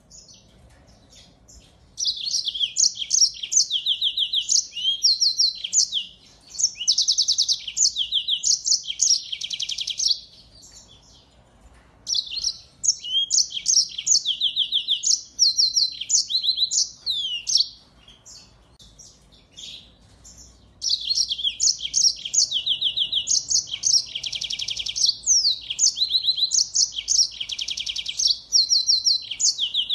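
A finch singing a fast, varied song of high trills and chirps, in four long bouts with short pauses between them.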